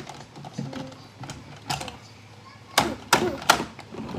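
Hard plastic toys knocking and clacking as they are handled: a single clack, then three sharper knocks in quick succession near the end.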